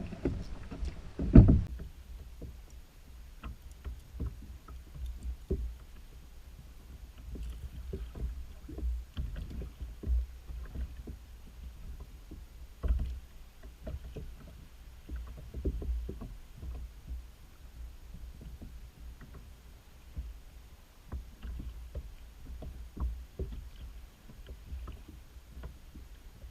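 Sounds of a fishing kayak on the water: water moving against the hull, a steady low rumble and scattered irregular knocks and taps, with one louder knock about a second in.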